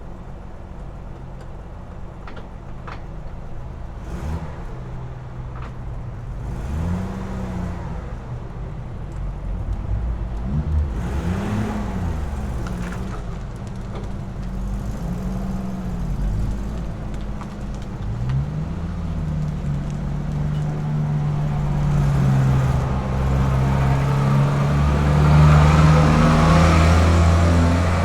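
AC Buckland's straight-six engine pulling through the gears: its note rises and drops several times with the shifts, then holds a steadier, higher pitch and grows louder near the end.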